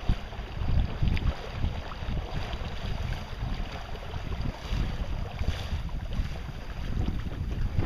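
Wind buffeting the microphone aboard a sailboat under way, in uneven gusts over a steady rushing hiss of wind and water.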